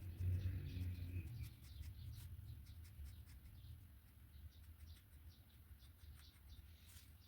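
Faint, short scratching strokes of a pen on paper, coming one after another over a steady low hum.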